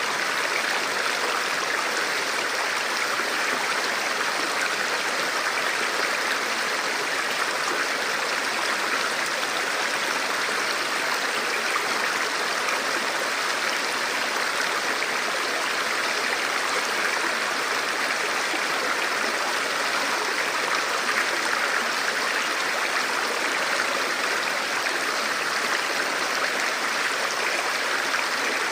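Forest river flowing: a steady, even rush of water over stones.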